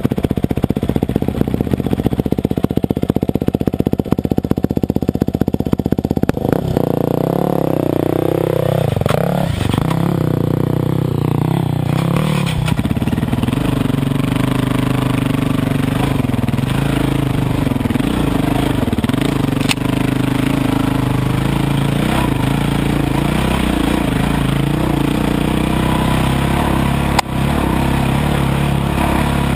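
Dirt bike engine idling with a rapid even pulse, then throttled up about six seconds in, its pitch rising and settling into a steady running note that wavers with the throttle as the bike is ridden. A single sharp knock near the end.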